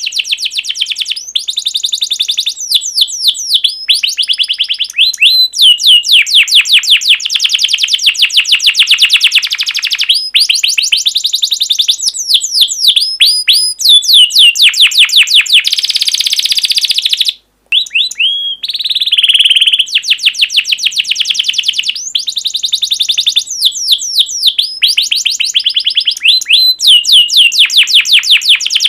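Recorded songbird song used as masteran: rapid trills of high, sweeping chirps, about ten notes a second in runs of a few seconds with short breaks. The sound drops out completely for a moment about two-thirds of the way through, like a splice in the track.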